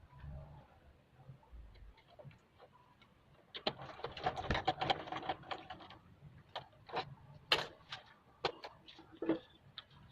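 Small hard parts being handled during assembly of a split air conditioner's indoor unit: a run of rapid clicking and rattling a few seconds in, then a handful of separate sharp clicks.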